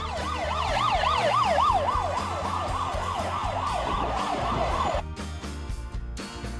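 Fire truck siren in a fast yelp, its pitch sweeping up and down about three times a second, cutting off suddenly about five seconds in. Background music with a steady beat plays underneath.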